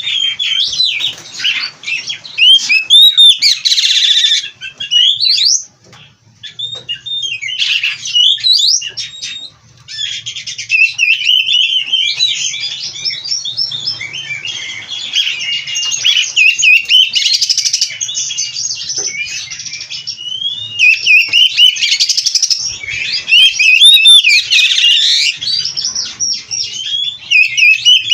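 Oriental magpie-robin (kacer) singing: a loud, fast, ever-changing run of whistles, chirps and trills packed with imitated phrases. It breaks off briefly about six and ten seconds in, then sings almost without a pause.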